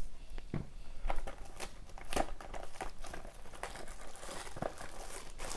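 Packaging crinkling and rustling as a sealed box of hockey cards is opened by hand, in irregular small crackles and clicks.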